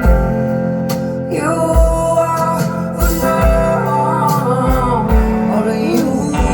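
Live band music: guitar and held chords over a kick drum beat, with a wavering lead melody line entering about a second and a half in.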